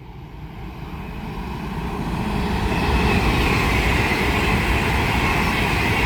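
Class 390 Pendolino electric train passing through at speed: the rush of wheels on rail building over about three seconds, then steady and loud, with a high whine sinking slightly in pitch.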